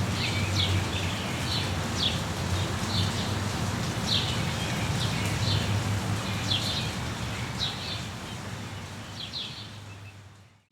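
Rainforest ambience: a steady hiss with a bird calling short, repeated chirps about once a second. The sound fades out near the end.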